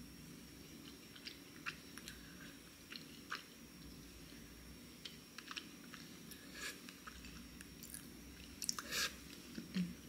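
Quiet close-up chewing of chocolate cookie crumbs: scattered small crunches and mouth clicks, with a louder cluster of crunches near the end.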